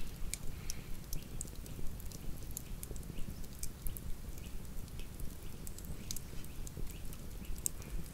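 Wood campfire crackling: irregular sharp snaps and pops over a low steady rumble of the burning fire.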